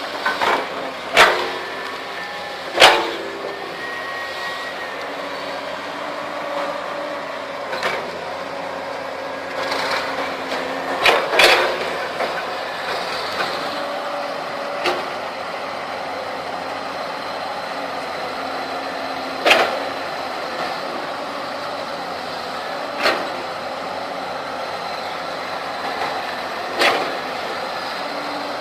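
Heavy-equipment diesel engine running steadily under work, with several sharp knocks spread through the stretch.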